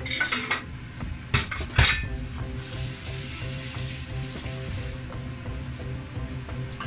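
A few sharp knocks of a spoon against a pot, then food sizzling as it fries in a stovetop pot for a couple of seconds, with stirring. Light background music plays underneath.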